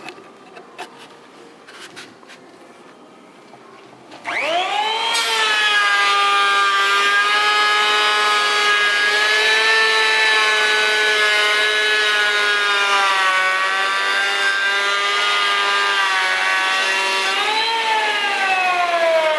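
A few light clicks, then about four seconds in a Festool CTM 55 dust extractor's motor starts, its whine rising quickly in pitch and settling into a steady loud run. Near the end the whine slides steadily lower in pitch.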